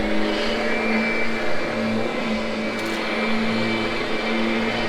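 Kirby upright vacuum cleaner running steadily on carpet, its motor holding a constant whine just after spinning up.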